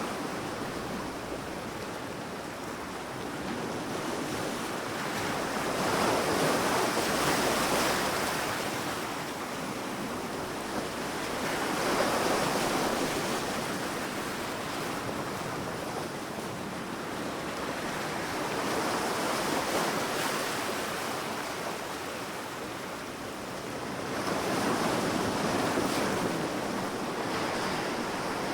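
Sea waves breaking and washing up a sandy beach, the surf swelling and fading in slow surges about every six seconds, with some wind.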